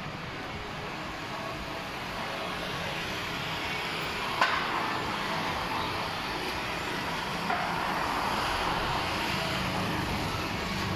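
Street traffic ambience: a steady wash of passing vehicles that grows a little louder, with a sharp click about four seconds in.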